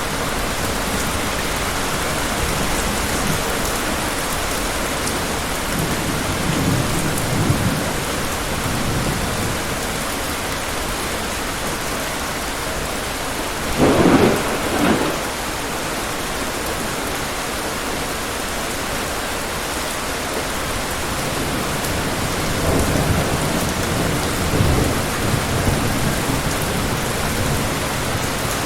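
Steady heavy rain falling, with thunder rumbling low twice and one louder, sharper thunderclap about halfway through.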